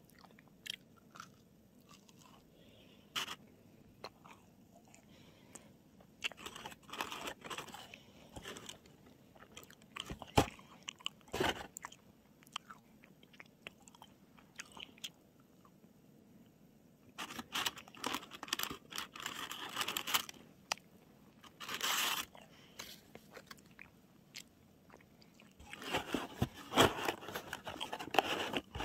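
Macarons with buttercream filling being bitten and chewed close to the microphone, their shells crunching. The chewing comes in irregular bouts with quieter pauses between them.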